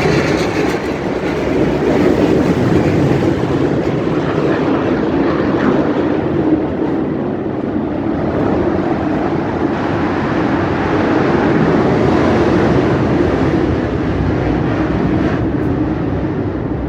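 Aircraft engine noise at an air show: a loud, steady drone that swells and eases slightly without a break.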